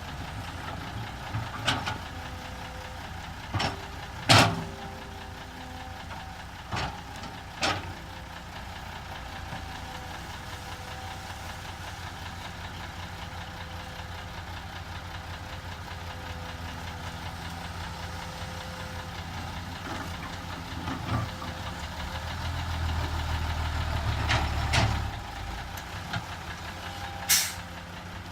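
Heavy diesel engine of a Komatsu PC200 excavator running steadily, with sharp metal clanks and knocks several times, the loudest about four seconds in. For a few seconds toward the end the engine sound grows heavier, as if under load.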